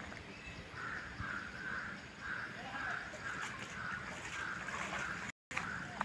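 A bird calling over and over in a steady series of short calls, a little over two a second.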